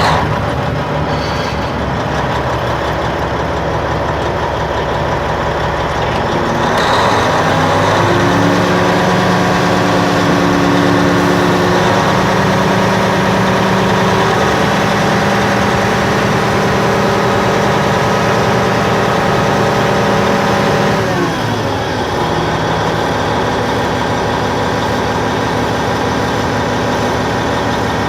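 Caterpillar D10N bulldozer's diesel engine running loud. It revs up about seven seconds in, holds at high revs for some fourteen seconds as the stuck machine works to pull free, then drops back to a lower steady speed.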